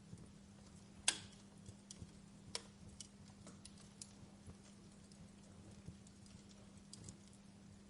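Wood fire crackling: irregular sharp pops and snaps over a faint hiss, the loudest pop about a second in, with a steady low hum underneath.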